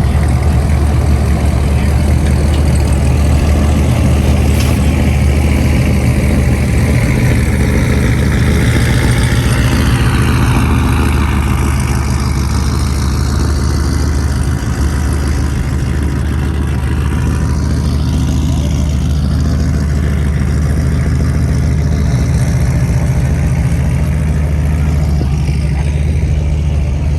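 A car engine running with a deep, steady rumble at low speed, with a vehicle's pitch sweeping past around the middle.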